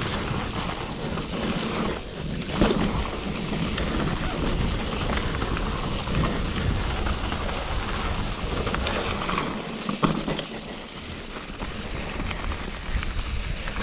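Downhill mountain bike descending a wet, muddy, rocky trail: steady tyre and drivetrain rumble mixed with wind buffeting the microphone, and a couple of sharp knocks from the bike hitting bumps, about two and a half seconds in and again near ten seconds.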